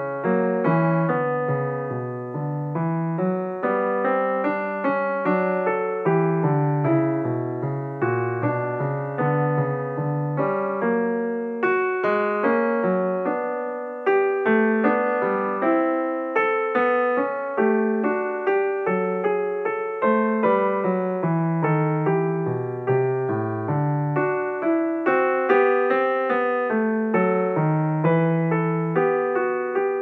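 Background piano music: single notes and chords struck about once or twice a second, each ringing and fading.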